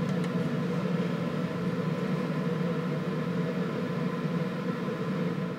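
A steady mechanical hum with a few fixed tones, such as an appliance, fan or air-conditioning unit running in the room.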